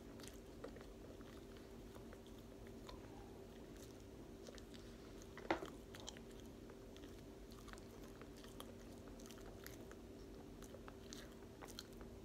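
Close-up mouth sounds of someone chewing cooked sweet potato: faint wet clicks and smacks, with one sharper click about halfway through, over a steady hum.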